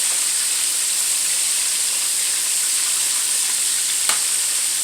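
Chicken wings frying in hot oil: a steady sizzle, with a single sharp click about four seconds in.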